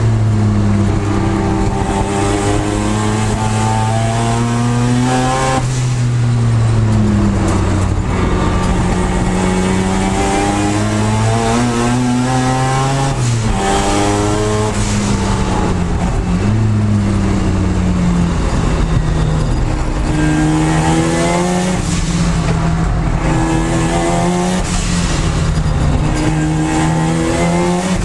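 Mazda RX-7 FD's twin-turbo rotary engine at full throttle, heard from inside the stripped race car's cabin. Its note climbs through the revs, drops with upshifts about five and a half and thirteen and a half seconds in, and then holds a steadier note, over wind and road noise.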